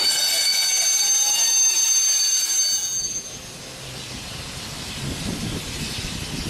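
Steam locomotive blowing off steam: a loud high hiss with several steady whistling tones that cuts off about three seconds in, leaving a quieter low rumble.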